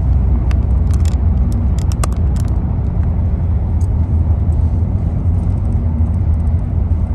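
A car being driven, heard from inside: a steady low rumble of engine and road noise, with a few faint clicks about one to two seconds in.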